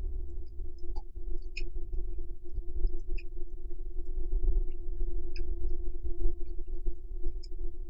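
Close-miked chewing of sweet potato glass noodles (japchae): soft, wet mouth clicks every second or so over a steady humming tone with a low rumble.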